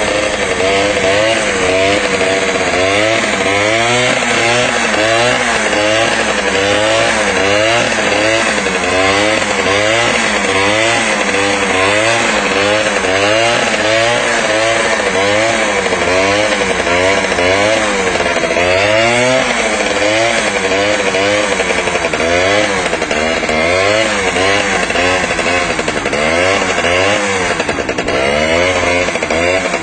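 Motorcycle engine revving hard and being blipped up and down over and over, its pitch rising and falling roughly once a second.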